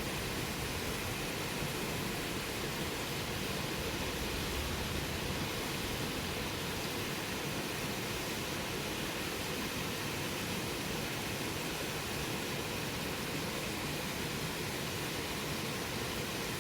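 Bonfire burning with a steady, even hiss, without distinct pops or crackles standing out.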